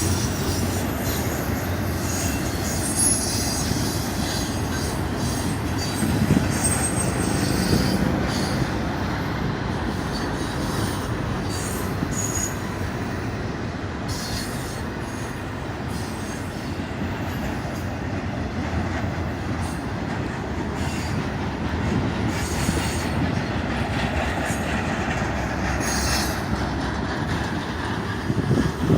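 Intermodal freight train of spine cars rolling past: a steady rumble of steel wheels on rail, with thin, high wheel squeals now and then.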